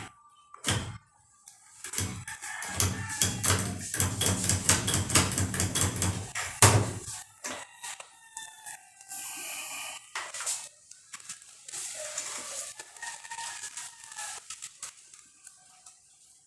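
A rooster crowing in the background. Early on, a loud stretch of several seconds of rapid clattering noise comes first.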